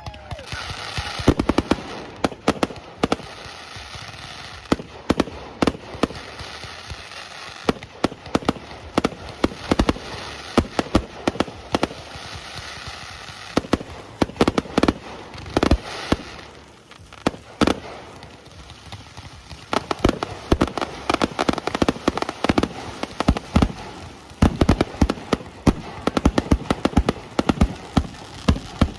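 Aerial fireworks display: shells bursting and crackling in quick, near-continuous succession, with a short lull about two-thirds of the way through before the bangs pick up again.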